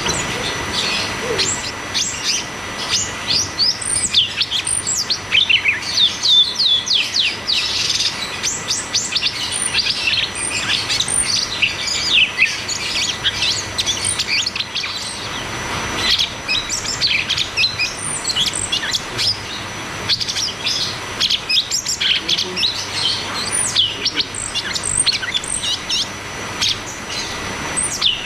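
Cucak cungkok singing a continuous, rapid rolling song of sharp, high chirping notes, with a short lull about halfway through.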